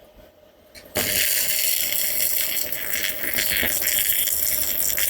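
Stick (MMA) arc welding with a Kazaki MMA-250ZEN3 mini inverter welder: the arc strikes about a second in and runs a bead with a steady, even crackle and hiss.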